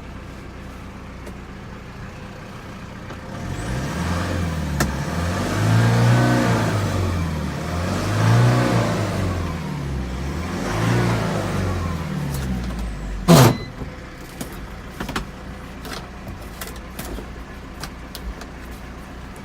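Mitsubishi Canter truck engine idling, then revved three times, each rev rising and falling over about two seconds. About thirteen seconds in comes a short, loud sharp knock, then the engine idles again with a few light clicks.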